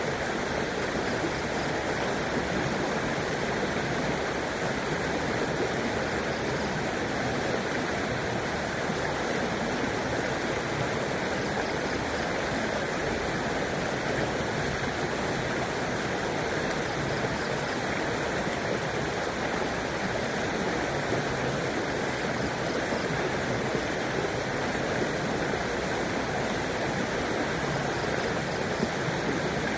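River water flowing and rushing steadily, with no change in level.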